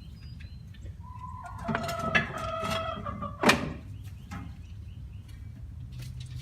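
Chickens clucking in a run of calls, with one loud, sharp sound about halfway through.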